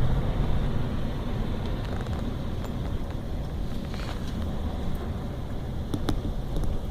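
Car driving, heard from inside the cabin: a steady low rumble of road and engine noise, with a few faint ticks about six seconds in.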